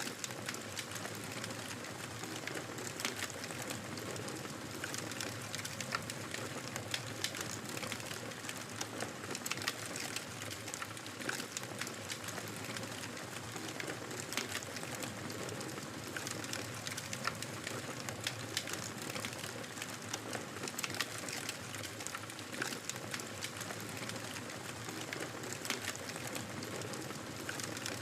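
Wood fire in a fireplace crackling steadily: a constant hiss with frequent small pops and snaps scattered throughout.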